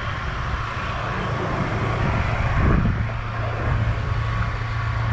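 A car engine running steadily, a low even hum over outdoor noise, swelling briefly about halfway through.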